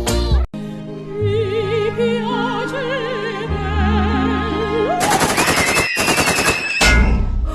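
Operatic singing with heavy vibrato over sustained music. About five seconds in, it gives way to a fast rattle of shots like machine-gun fire for about two seconds, with a high tone sliding over it, and ends in a loud low blast.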